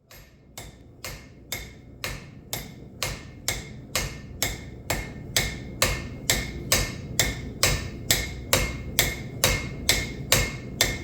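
Hammer blows on steel at an anvil while forging a railroad spike: steady, a little over two strikes a second, each ringing briefly. The blows grow louder over the first few seconds.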